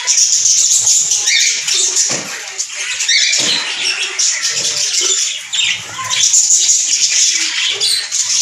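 A flock of small pet parrots chattering and chirping without pause, many high calls overlapping.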